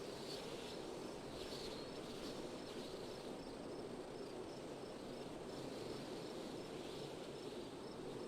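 Steady wind blowing, with an insect chirping high and even, about three times a second.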